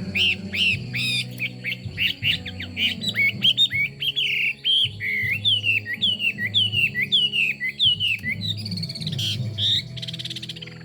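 Chinese hwamei singing: a quick run of loud whistled notes, then a long series of repeated down-slurred phrases at about two a second, over a steady low hum.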